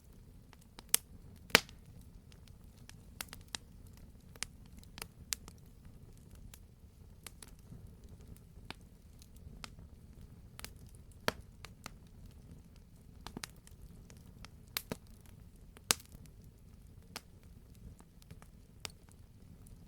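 Real wood fire crackling in a fireplace: irregular sharp pops and crackles over a low steady rumble, with the loudest pops about a second and a half in and again near the sixteen-second mark.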